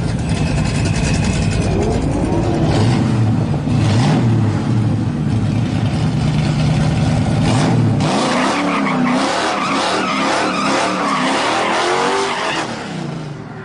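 Vehicle engines running and revving, rising and falling in pitch. A steady low hum drops out about eight seconds in, and the sound fades near the end.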